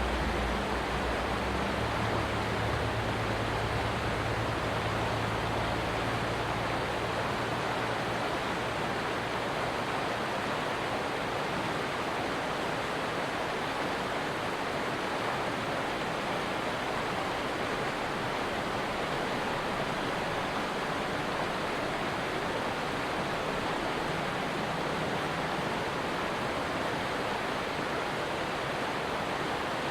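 Stream water rushing steadily, an even, unchanging wash of noise. A low hum underneath fades out over the first several seconds.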